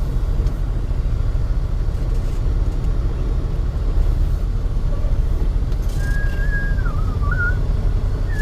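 Steady low rumble of a semi-truck on the move, heard from inside the cab: engine drone and road noise at an even level.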